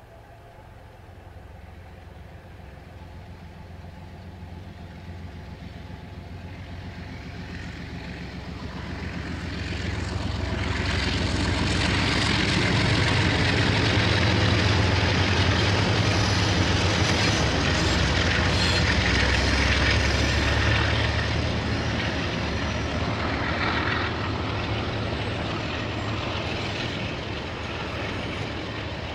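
A diesel-hauled KiwiRail train approaching and passing. The engine's low rumble builds steadily, and the wheel-on-rail noise joins it and peaks for several seconds in the middle. The sound then slowly eases as the train carries on.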